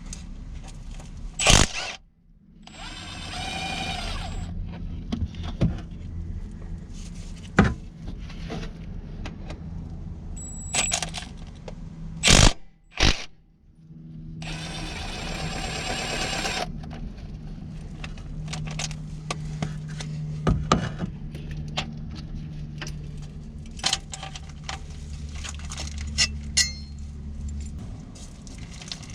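Metal tools and parts clinking, knocking and scraping during hands-on vehicle repair work, with a few sharp knocks and two bursts of hiss of about two seconds each.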